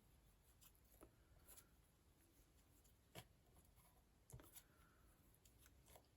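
Near silence, with a few faint crinkles and taps of paper flowers being scrunched in the fingers to give them shape; the clearest come about three seconds in and again just after four seconds.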